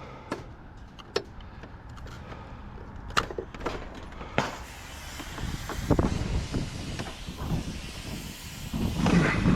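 Scattered sharp knocks and clinks, a handful over several seconds, over a low rumble that swells near the end.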